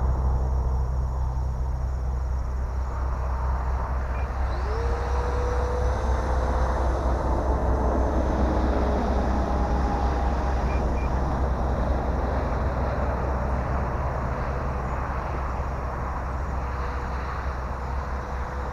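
Electric ducted-fan RC jet (E-flite F-15 Eagle) whining in flight, its pitch rising about four and a half seconds in as it throttles up, then holding steady, over a constant low rumble.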